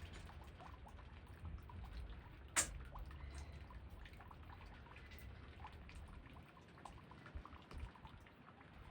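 Light rain, with scattered drips and one sharper, louder drop about two and a half seconds in, over a low rumble that thins near the end.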